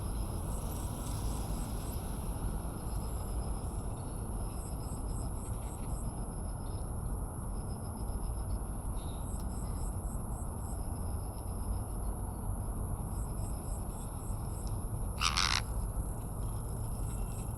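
Outdoor ambience of insects: repeated trains of short high chirps over a constant high whine and a steady low background noise. About fifteen seconds in, one short loud bird call stands out above the rest.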